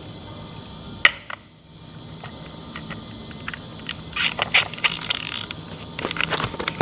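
Metal clicks and rattles from hand tools and parts being worked while a fan blade is fitted onto an A/C condenser fan motor. There is one sharp click about a second in, then a run of irregular clicks from about four seconds on, over a steady background hum.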